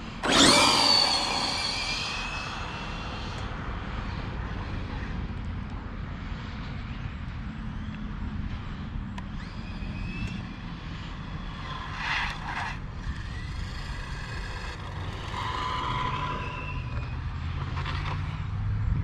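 Losi 22S RC drag car's electric motor giving a loud high-pitched whine that falls in pitch and fades over a few seconds as the car speeds off on a drag pass. Fainter whines follow later, over a steady low rumble.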